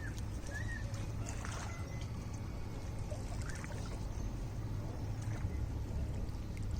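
Lake water lapping and trickling at the shore over a steady low rumble, with a few faint chirps and light splashes.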